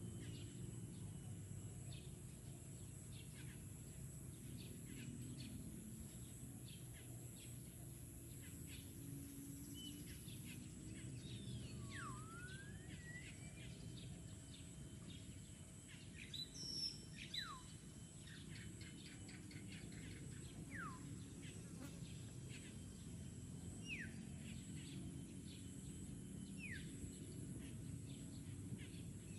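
Garden birds calling over a steady low background rumble: scattered short chirps and several falling whistled calls, the loudest about seventeen seconds in. A thin steady high tone runs underneath.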